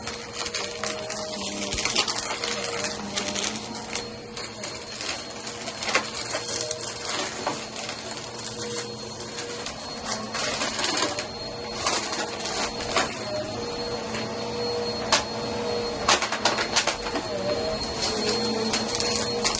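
Vacuum cleaner running with a steady motor hum and whine, with frequent irregular clicks and crunches as dry cereal pieces are sucked up and rattle through it.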